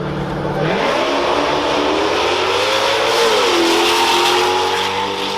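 Dirt bike engines launching down a drag strip. A steady low drone jumps to a loud, rising engine note under full throttle, the pitch drops briefly near the middle at a gear change, then climbs again.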